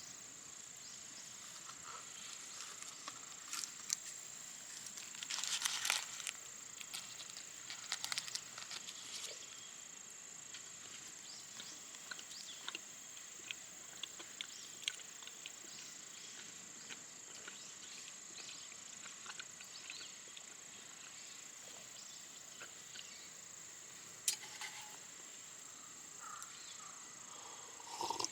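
Steady high-pitched chorus of autumn insects, with scattered crinkling and rustling clicks that come in small clusters, most around five to six seconds in, at eight seconds and once sharply near the end.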